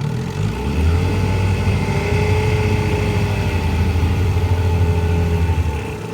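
1964 Johnson 5.5 hp two-cylinder two-stroke outboard motor running in reverse gear. It is throttled up about half a second in, runs strongly and steadily, then eases back near the end.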